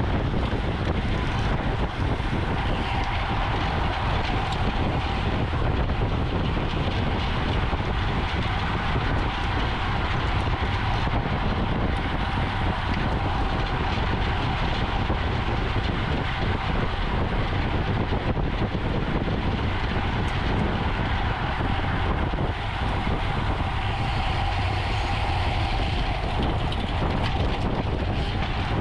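Steady rush of wind on the microphone with rolling road noise from a racing bicycle moving at speed.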